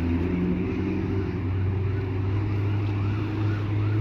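A motor vehicle's engine running steadily nearby with a low hum, getting slowly louder.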